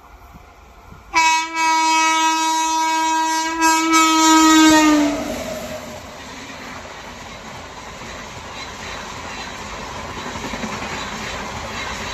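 Indian Railways locomotive horn sounding one long, loud blast of about four seconds, dropping in pitch as it ends, followed by the rushing noise of an express train passing at speed on the track, growing steadily louder.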